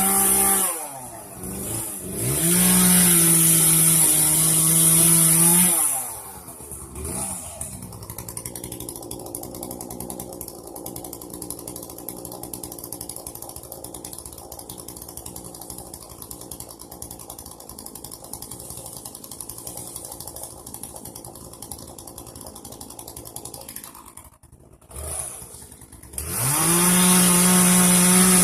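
Gasoline chainsaw revved to full throttle twice in the first six seconds, then idling with a steady rattle for about twenty seconds, then revving back up to full throttle near the end.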